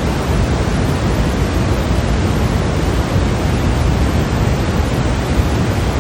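Steady, unbroken white-noise track for sleep: an even hiss without pulses or pitch, heaviest in the low end and thinning toward the highs.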